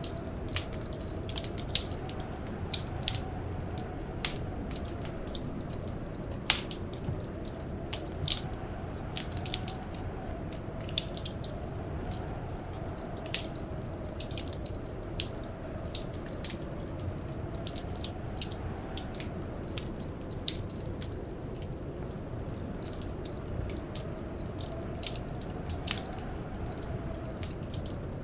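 Wood fire crackling in a fireplace: irregular sharp crackles and several louder pops over a steady low rumble, with a faint hum underneath that slowly wavers in pitch.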